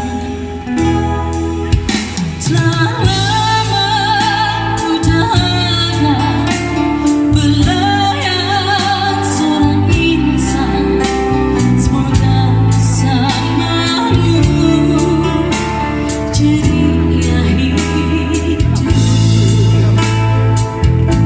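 A woman singing a pop ballad live with a busker band: her voice wavers with vibrato over steady bass notes, guitar and a regular drum beat.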